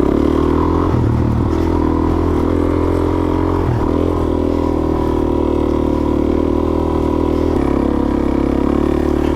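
Suzuki DRZ400S's single-cylinder four-stroke engine running steadily while the bike is ridden, its note shifting in pitch a few times as the throttle and gears change.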